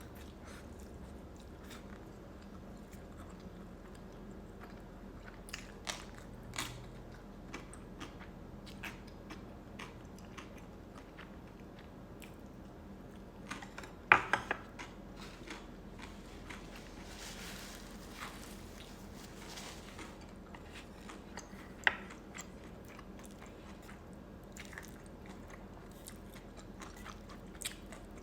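Close-miked chewing of rice cakes and noodles, with wet mouth clicks scattered throughout. A cluster of sharp, louder clicks comes about fourteen seconds in, and another about eight seconds later.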